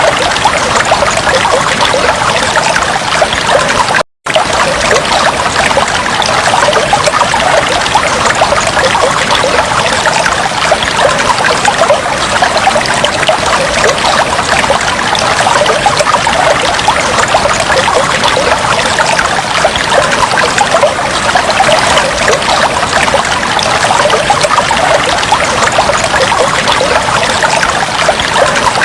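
Aquarium water trickling and bubbling steadily, a dense patter of small splashes and bubbles. The sound drops out for a split second about four seconds in.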